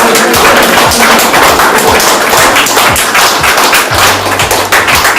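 Audience applauding, a dense patter of many hands clapping, over background music with a steady beat.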